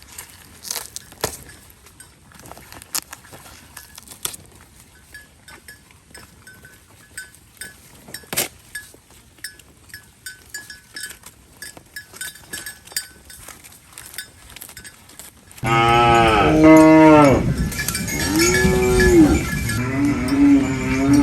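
Cattle mooing: several loud, arching calls begin about fifteen seconds in and carry on to the end. Before that, only faint clinks and clicks, with a light bell-like ringing.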